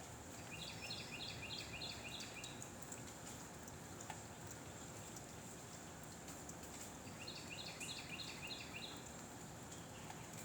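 A bird singing two phrases about five seconds apart, each a quick run of six or seven even, repeated notes, over a steady background of wind noise.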